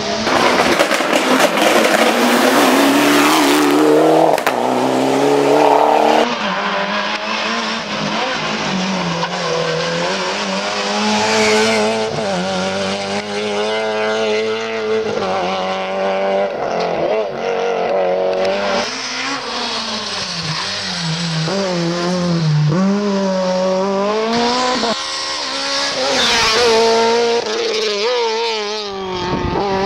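Rally cars at full throttle on a special stage: engines revving hard and sweeping up and down through the gears. The sound changes abruptly a few times, as clips of different passes are cut together.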